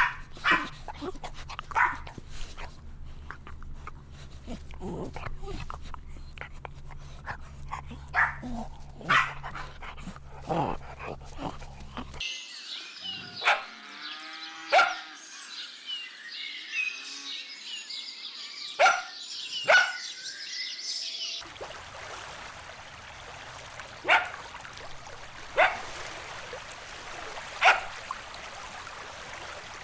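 Dogs barking: short, sharp single barks every second or two, across separate clips whose background noise changes abruptly twice.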